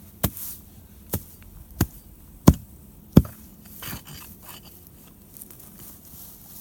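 A run of sharp chopping strikes about every two-thirds of a second, the last two the loudest, followed by fainter scattered taps and rustling.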